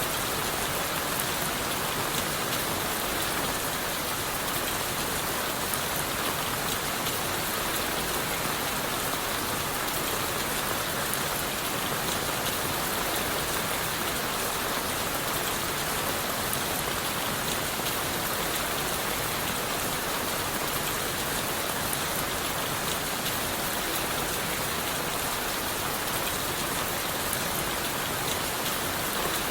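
Steady rain falling on leaves, wood and the forest floor, an even hiss with scattered drop ticks.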